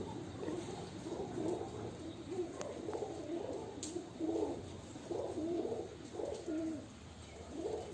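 Domestic pigeons cooing, a steady run of low, warbling coos one after another.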